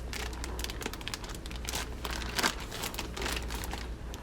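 Plastic zip-top freezer bag crinkling and rustling in irregular crackles as a whole chicken is handled and pushed into it.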